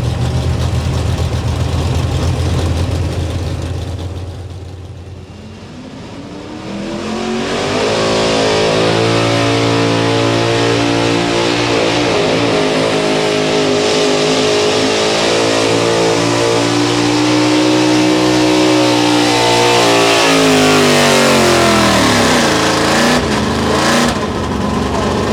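Pro Street four-wheel-drive pulling truck's engine running low, then revving up about seven seconds in and holding high revs under load for over ten seconds before winding down near the end.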